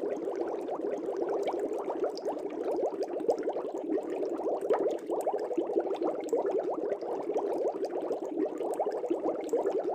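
Air bubbles rising through aquarium water: a dense, steady stream of small bubbling blips.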